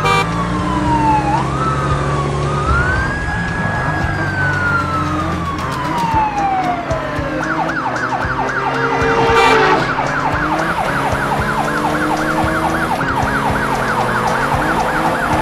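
Cartoon police car siren: a slow rising and falling wail, switching about halfway to a fast warbling yelp several cycles a second.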